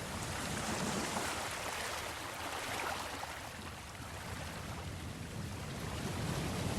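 Sea waves washing in a steady noisy rush that ebbs about halfway through and swells again near the end.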